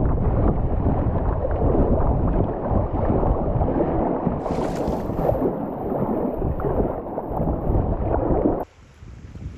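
Wind buffeting the microphone in a loud, low rumble, cutting off abruptly near the end to a faint background.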